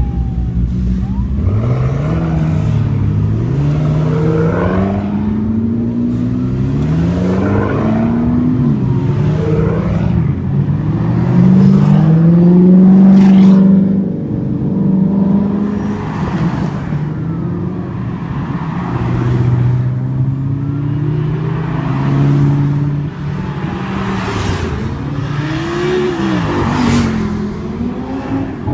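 Sports car engines revving and accelerating past one after another, each engine note climbing repeatedly as it pulls through the gears. The loudest is a long, high engine note a little before halfway.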